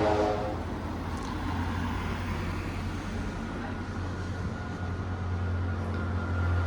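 Street traffic: a vehicle engine running with a steady low hum, with the general noise of a town street around it.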